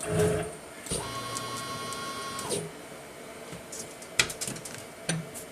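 CNC mill axis drive whining steadily for about a second and a half as the table is jogged to pick up the work zero, followed by a few light clicks.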